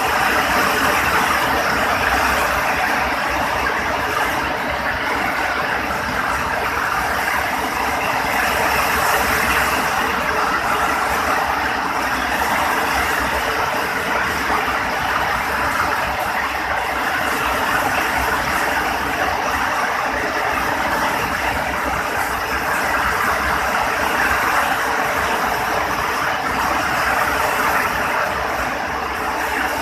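Heavy rain falling, a steady, even downpour.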